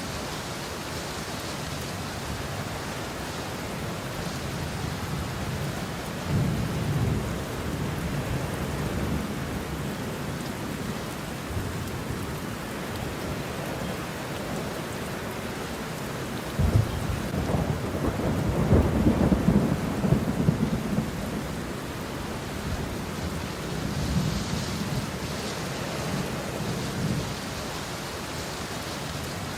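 Steady heavy rain with rolling thunder: a low rumble swells about six seconds in, a sharper, louder clap breaks about sixteen seconds in and rumbles on for several seconds, and a softer roll follows near the end.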